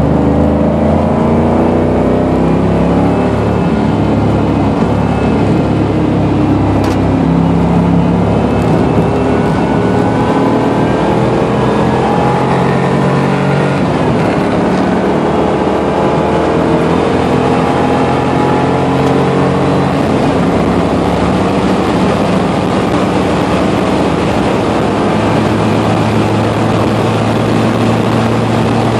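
1989 Pontiac Firebird Trans Am engine running hard at track speed, heard from inside the cabin over steady road and wind noise. Its pitch climbs as the car accelerates in the first few seconds and again around ten seconds in, then holds steady.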